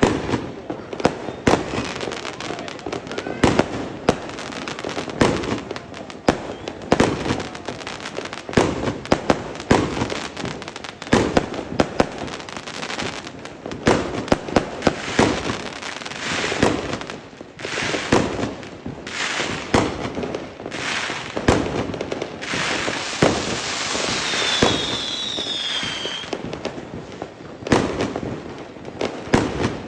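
Fireworks going off continuously: a rapid, irregular string of sharp bangs and crackling bursts. About three-quarters of the way through, a few high whistles slide down in pitch among the bangs.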